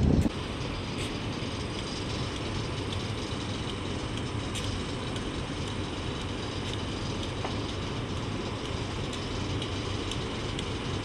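Steady hum of electric locomotives at the head of a passenger train, close by and barely moving, with faint scattered ticks.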